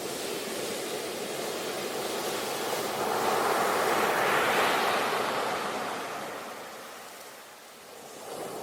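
Surf: the rushing noise of a wave that swells to a peak about four seconds in, then ebbs away before the next one starts to build near the end.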